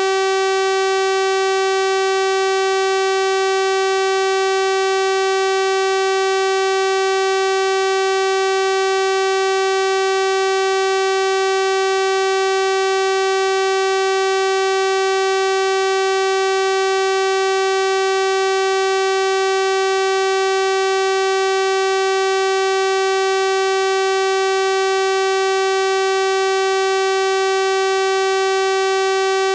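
Steady 384 Hz sawtooth-wave tone: a continuous synthesized buzz, unchanging in pitch or loudness, with a full series of harmonics.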